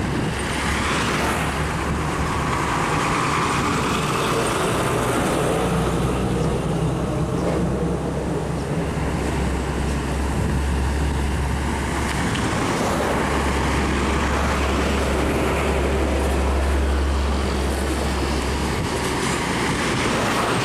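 Road traffic in a jam, dominated by heavy trucks: a steady low engine rumble, heaviest in the second half, with the noise of vehicles passing slowly.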